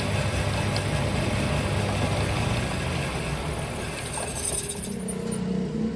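Steady mechanical noise with a low rumble that eases off somewhat in the second half.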